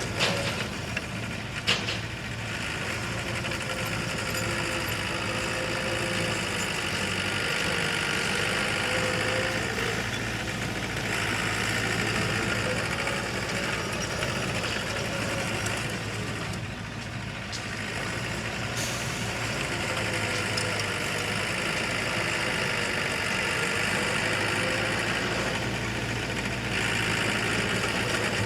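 Diesel engine of heavy earth-moving machinery running, its pitch rising and falling as the load changes, with a few sharp knocks in the first two seconds.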